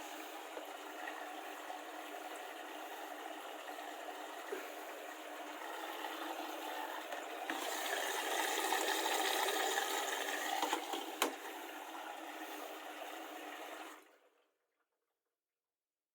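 Water rushing steadily, swelling louder about halfway through with a couple of sharp clicks, then cutting off abruptly.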